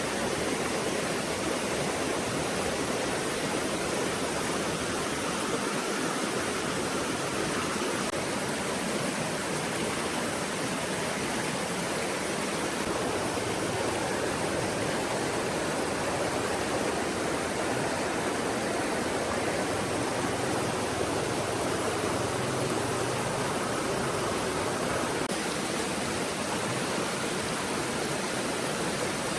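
Stream water rushing and splashing steadily, a constant wash of noise with no breaks.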